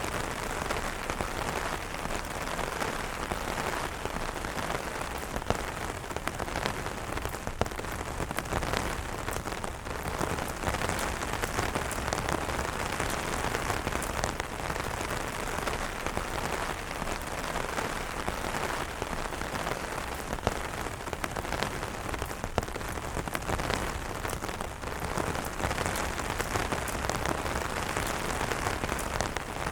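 Steady rain falling on an umbrella, a dense even hiss with many individual drops striking the fabric.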